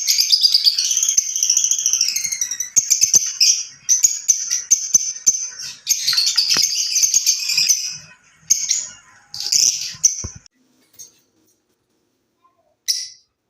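Fischer's lovebirds chattering with rapid, high-pitched chirps that stop about ten seconds in, followed by one short call near the end.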